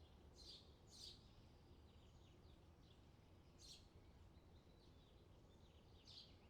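Faint outdoor summer ambience: birds chirping, with about four sharp chirps over softer twittering and a steady low rumble.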